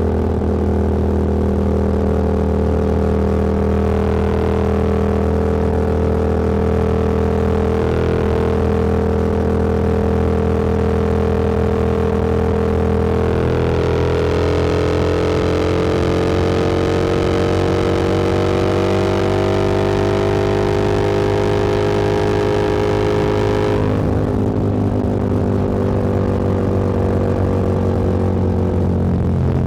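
Motorcycle engine running at road speed, with a steady rush of wind and road noise. About halfway through, the engine note climbs slowly for around ten seconds as the bike speeds up, then falls back suddenly.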